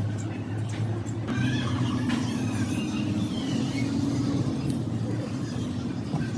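A steady engine hum, with faint voices in the background.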